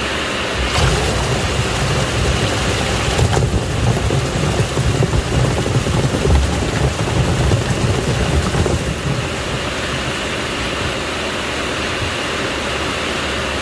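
Washing machine running, its drum churning water with a steady rushing sound, a low rumble and a faint steady whine.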